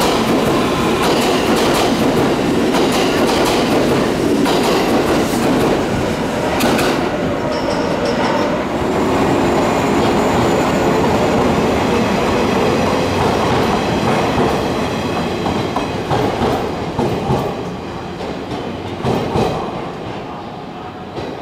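An electric commuter train runs along the platform, its wheels clacking over the rail joints. After about seven seconds the clatter thins to a steadier running noise with a low hum. Near the end it grows quieter, with a few more wheel clacks from trains on the farther tracks.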